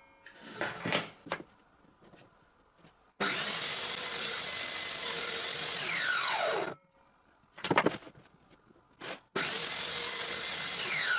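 Table saw running twice in quick succession: each time the motor runs at a steady high whine for about two or three seconds, then is switched off and the whine falls as the blade winds down. Light knocks of wood being handled come at the start and between the two runs.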